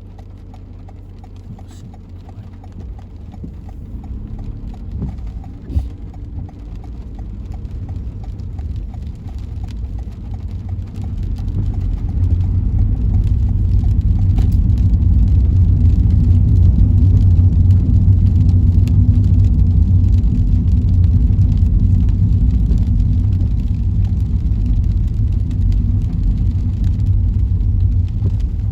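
Car road noise heard from inside the cabin: a steady low rumble of engine and tyres that grows much louder about twelve seconds in as the car picks up speed.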